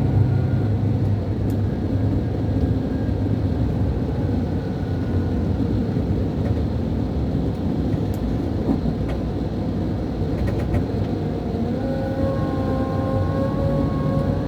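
Scania DC13 13-litre inline-six diesel of a K440 coach, heard from inside the bus, running steadily under way with a low drone. Near the end a whine comes in and starts to rise in pitch.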